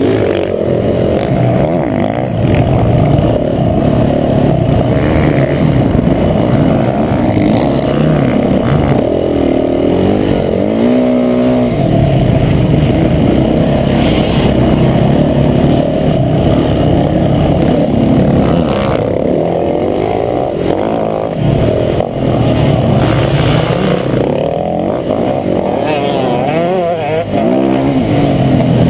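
Motocross bike engine running hard around a dirt track, the revs rising and falling through the gears, loud and unbroken.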